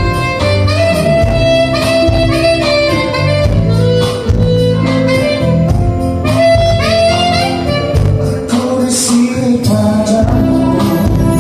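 Live band music: a held, melodic lead line over bass and a steady drum beat.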